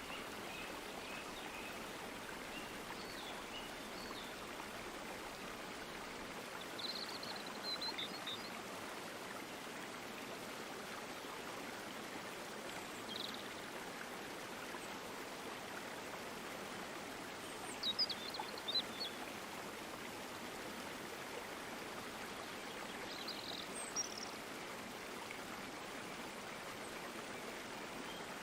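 A stream of water flowing steadily, with a short high chirp now and then, the loudest cluster about two thirds of the way through.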